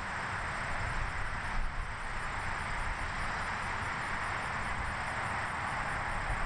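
Steady outdoor ambience: an even rushing noise over a low rumble, with a faint high tone that pulses softly about three times a second.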